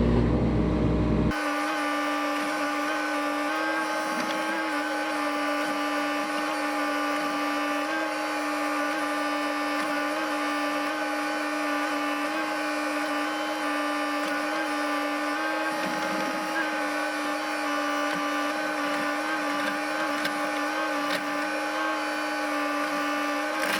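A small electric motor running steadily with an unchanging whine, cutting in abruptly about a second in.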